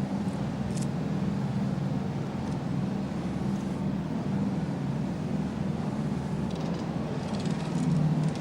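Engine of heavy machinery running steadily with a low hum, lifting out the old hammer block; it grows a little louder near the end, with some light clatter.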